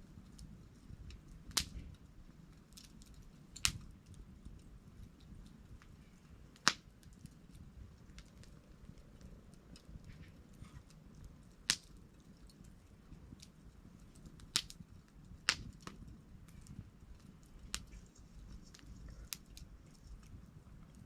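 Wood campfire crackling: sharp pops every few seconds, the loudest about seven of them, among many small ticks over a low, steady rumble of burning.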